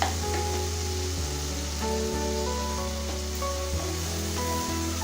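Onion, tomato and spice masala sizzling steadily in a pan as it is sautéed, with an occasional click of the stirring spoon. Background music with sustained notes plays over it.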